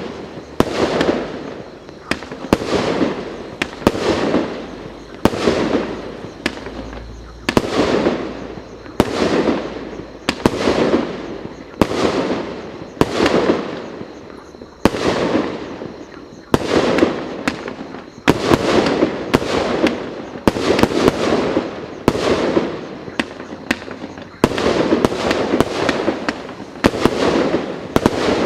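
Consumer fireworks battery firing shot after shot, about one every one and a half seconds, each a sharp report followed by a fading tail of noise.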